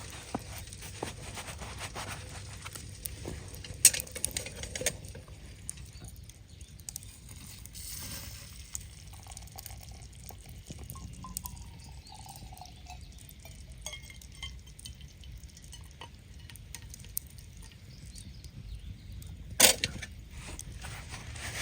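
Small clinks and knocks, with a sharp knock about four seconds in and a louder one near the end.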